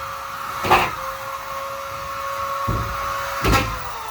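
Vacuum cleaner motor running with a steady whine, broken by a few knocks. About three and a half seconds in, it is switched off and the whine falls in pitch as the motor spins down.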